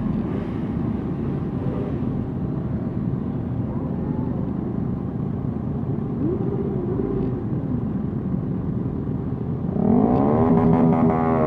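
Motorcycle engines running at parade pace under a steady rush of wind. A brief rise and fall in engine pitch comes midway, then near the end a louder engine revs up and drops back.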